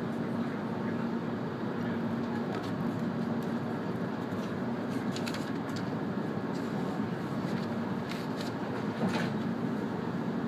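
Cabin noise of an E2-series Shinkansen train running: a steady rumble with a low hum and a few light clicks.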